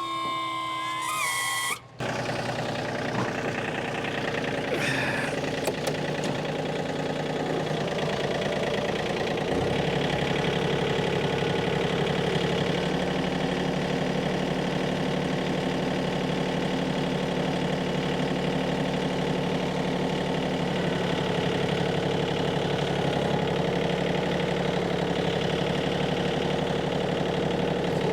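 A vehicle engine running steadily, getting a little louder and fuller about ten seconds in and holding there.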